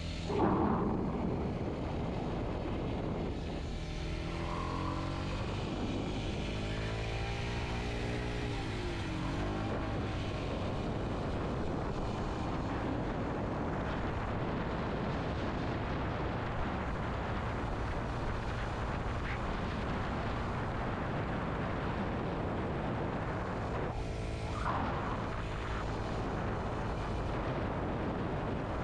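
Kawasaki Z125's small single-cylinder four-stroke engine running steadily as the motorcycle rides along, heard from on board.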